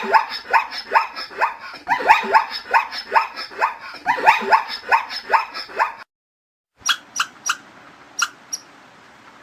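Dog yipping rapidly, a run of short, high, falling cries about three a second that stops about six seconds in. After a short silence come a few single sharp yips.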